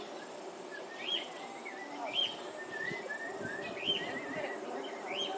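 Small birds chirping: short rising calls repeated about once a second, with a warbling chatter between them.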